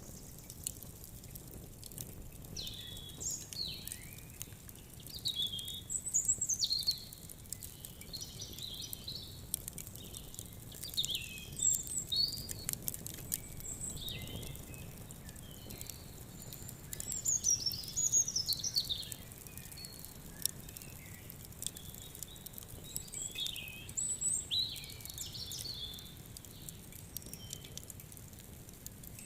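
Birds chirping and singing in short, repeated calls, some sweeping down in pitch, with scattered small crackles from a wood fire.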